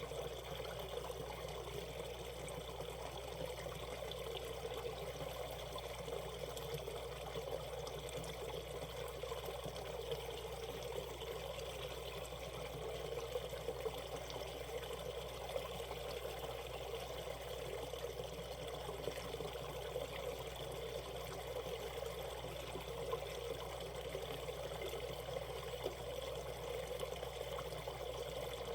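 Shallow valley stream running in a steady, even rush of water.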